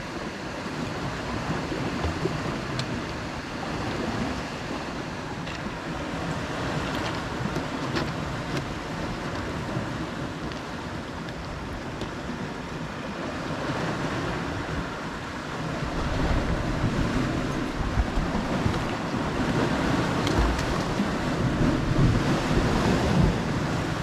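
Sea waves washing against a rocky shore, with wind buffeting the microphone; the low wind rumble grows heavier about two-thirds of the way through.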